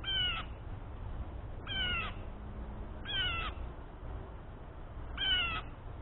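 Blue jay calling four times, each short call sliding down in pitch, a second and a half to two seconds apart, over a low steady rumble.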